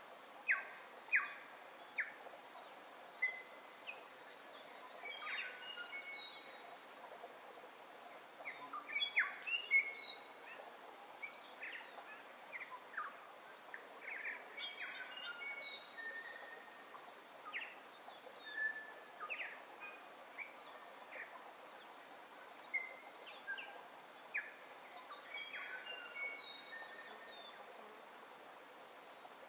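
Several birds calling, a steady scatter of short chirps and whistles over a faint, even background hiss.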